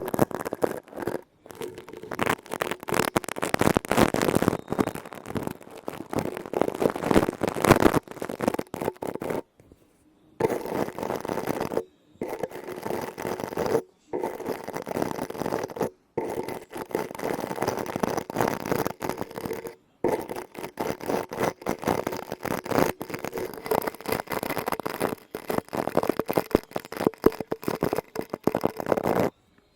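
Close-miked ASMR scratching and tapping on objects, a dense run of fast clicks and scrapes, cut into takes by several short dead silences.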